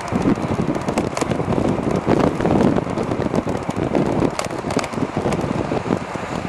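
Wind buffeting the microphone on a moving e-bike, a loud, uneven rush, with scattered sharp clicks and rattles.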